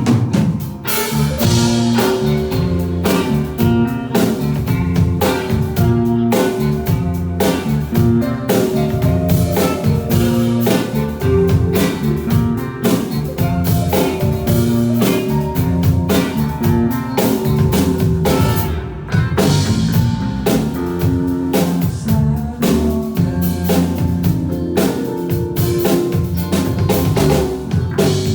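Live band playing an instrumental passage: guitar, bass and drum kit with a steady beat.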